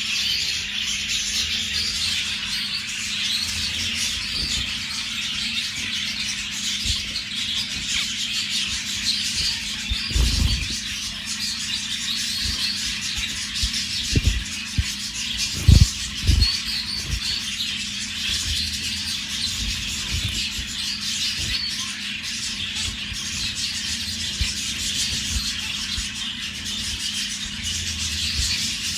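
A group of zebra finches calling continuously in a dense, high-pitched chatter, over a steady low hum. A few dull thumps come around the middle.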